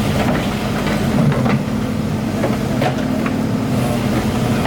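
Excavator's diesel engine running steadily, with a few sharp metallic clanks and knocks over it.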